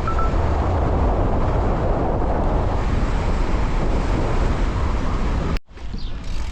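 Wind buffeting the microphone of a moving bicycle rider, a loud steady rumble that cuts off abruptly near the end to a much quieter scene.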